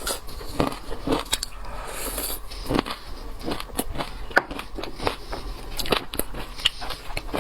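Close-miked eating of seafood: biting and chewing with irregular crunches, crackles and wet mouth clicks.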